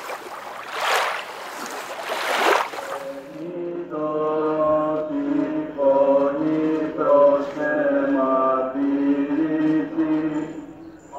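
Sea water washing in three surges, then from about three seconds in, Orthodox church chant: several voices singing over a steady low held drone.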